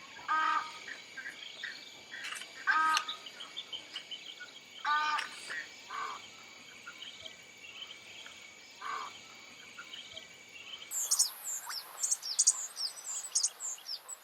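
Wetland birds calling: a few loud, harsh calls a couple of seconds apart over a steady high insect buzz and faint chirping. About eleven seconds in, the sound changes to rapid, high-pitched chirping of small birds.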